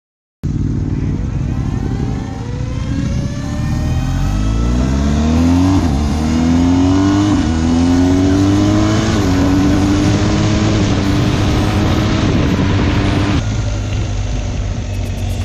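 BMW R 1250 GS motorcycle's 1254 cc boxer twin accelerating hard through the gears, its pitch climbing and dipping briefly at each upshift before settling into a steady run. It starts abruptly and gets somewhat quieter near the end.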